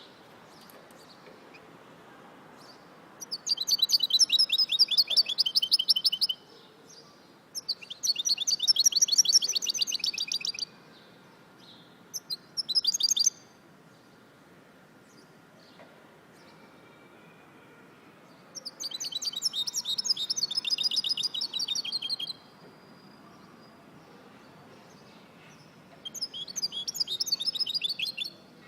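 A songbird singing in bouts of rapid, fast-repeated trilled notes: five phrases of one to four seconds, the third very short, separated by pauses of a few seconds.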